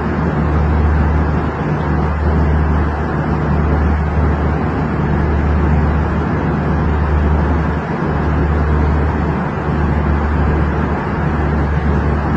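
Airliner cabin noise: a steady low engine and air drone filling the cabin.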